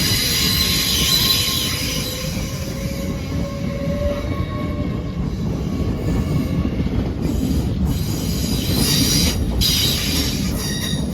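Hull Trains Class 802 train moving through the station: a steady rumble of wheels on rail with high-pitched wheel squeal, which returns in short sharp bursts near the end.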